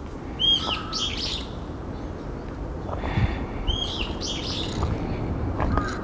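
A songbird sings a short phrase twice, about three seconds apart: each time an arched whistled note followed by a quick run of high chattering notes.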